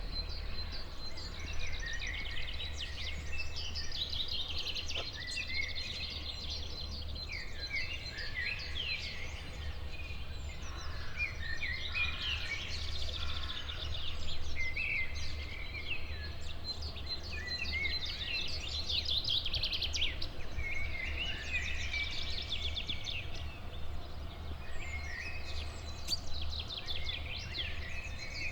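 Several songbirds singing at once, with overlapping chirping phrases and quick trills all through, over a steady low rumble.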